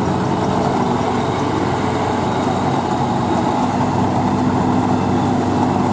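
Heavy farm-machine engine, a tractor or harvester, running steadily at an even speed.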